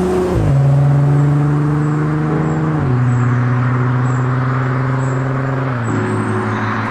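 Volkswagen Passat R36's 3.6-litre VR6 engine and exhaust running under way. The engine note steps down in pitch three times, about every three seconds, like gearshifts up through the DSG gearbox.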